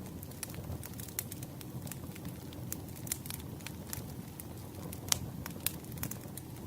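Campfire burning: a steady low rumble of flames with irregular sharp crackles and pops of burning wood, the two loudest pops coming about five seconds in.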